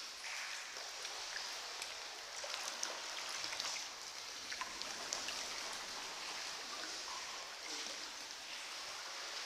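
Steady hiss of water with many small scattered drips and light splashes around a sea kayak under way.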